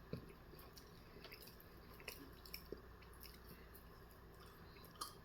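Near silence with a few faint, scattered wet clicks of a person chewing close to the microphone.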